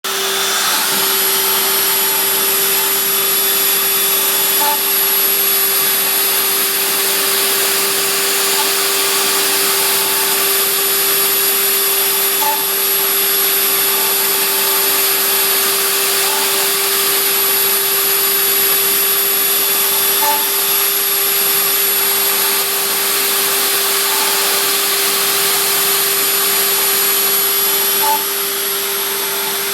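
A homemade CNC machine's spindle motor running continuously: a steady whine over loud hiss, dipping slightly in level near the end.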